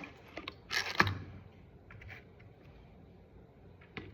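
A caramel syrup bottle's pump is pressed once: a short hissing squirt ending in a sharp click about a second in, followed by a few small clicks of handling near the end.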